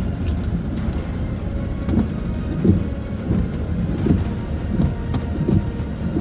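Low rumble inside a Land Rover Discovery 4 driving a wet, rough lane, with a regular run of short thuds about every two-thirds of a second from about two seconds in.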